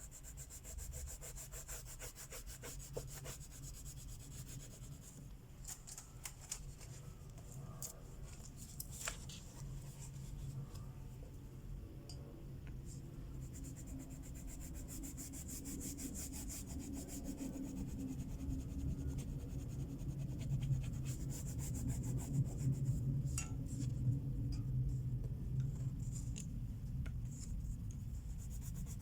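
Crayola wax crayons rubbing and scratching on colouring-book paper in quick back-and-forth strokes, growing louder through the second half.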